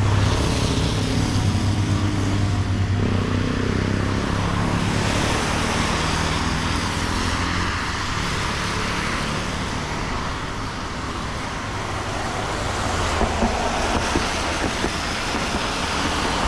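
Road traffic on a wet street: a vehicle's engine hums close by at the start and fades over the first few seconds, under a steady hiss, with a few light knocks near the end.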